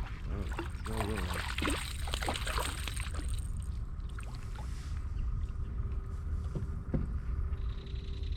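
Sounds aboard a fishing kayak on the water: a steady low rumble with scattered knocks and clatter in the first few seconds, then a faint steady hum from about four seconds in.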